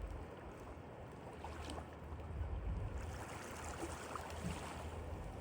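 Blizzard wind buffeting the microphone: a low, uneven rumble under a steady hiss.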